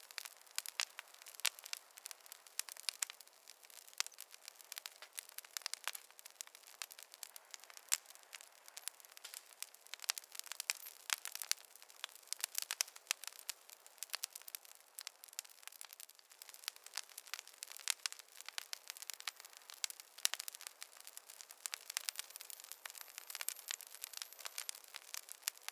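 Campfire crackling: a dense, irregular run of sharp pops and snaps over a faint steady hiss of the burning fire.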